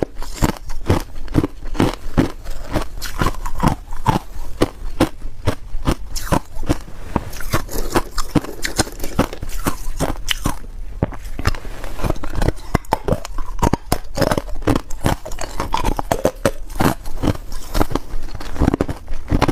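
Ice being bitten and chewed close to the microphone: a rapid run of sharp crunches, several a second, with a short lull about halfway through.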